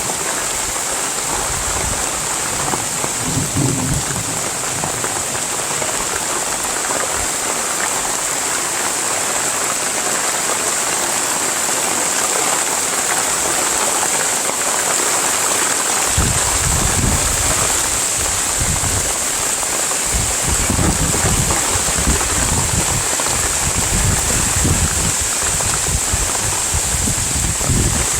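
Heavy rain falling steadily, a dense even hiss, with irregular low rumbles in the second half.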